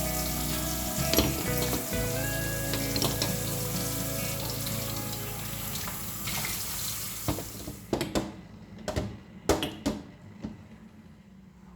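Steady hiss of kitchen work, such as water running at a sink or food sizzling, under soft background music. It stops abruptly about eight seconds in, and a few sharp knocks follow.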